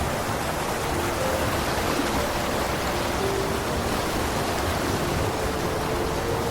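A creek rushing over a cascade: a steady, unbroken hiss of falling and churning water.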